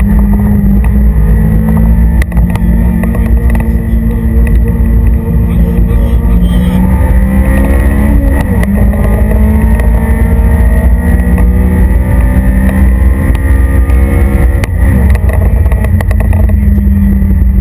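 Honda Civic Type R's four-cylinder engine, heard from inside the cabin, pulling hard on track. The engine note climbs steadily and drops sharply at gear changes about eight and a half and fifteen seconds in, then falls away near the end as the driver lifts off.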